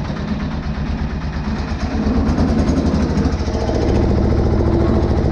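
Single-cylinder air-cooled Deutz diesel of an old Case roller running with a fast, even chugging. It picks up and gets louder about two seconds in and again near four seconds.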